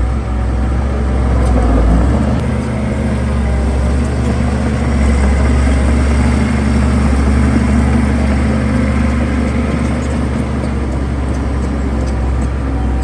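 Heavy earthmoving machine's diesel engine running steadily; its note shifts about two seconds in, then holds.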